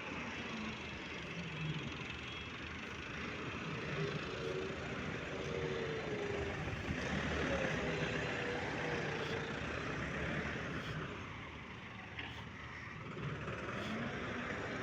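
An engine running steadily, with a faint wavering tone that rises and falls through the middle.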